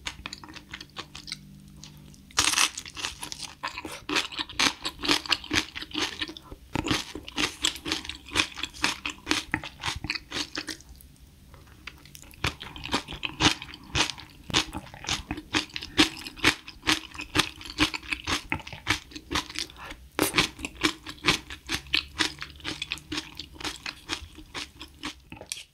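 Close-miked chewing of a spoonful of rice porridge topped with crunchy cabbage kimchi: quick runs of crunchy chews, with a pause of about a second near the middle.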